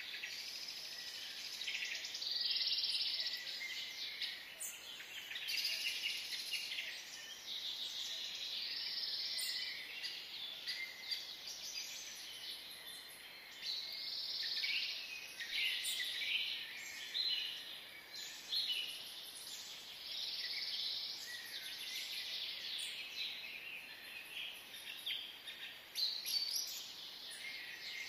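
Birds chirping: many short calls overlapping without a break.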